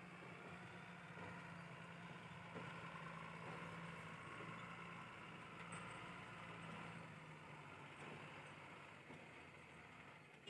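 Backhoe loader's diesel engine running steadily, heard faintly as a low, even hum.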